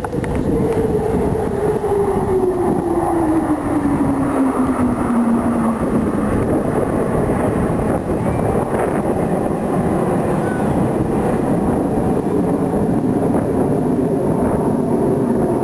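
Blue Angels F/A-18 Hornet jets passing over with a loud, steady roar. The tone drops in pitch over the first six seconds as they go by.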